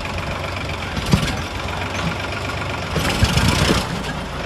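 Sonalika 745 DI tractor's diesel engine running steadily, with louder noisy surges about a second in and again from about three seconds in.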